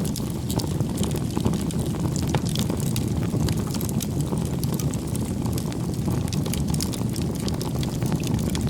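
Wood fire burning: a steady low rumble of flames with frequent small crackles and pops from the burning firewood.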